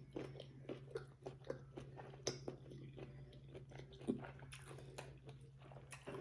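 A person chewing food close to the microphone, with many small irregular mouth clicks, over a faint steady low hum.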